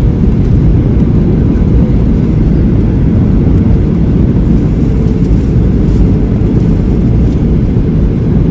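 Cabin noise aboard a Boeing 737-800 heard from a passenger seat: a loud, steady, low rumble of its CFM56 engines and the airflow past the fuselage, with a faint steady hum above it.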